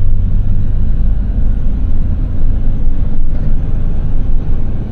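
Steady low rumble of engine and road noise inside a small box truck's cab while driving.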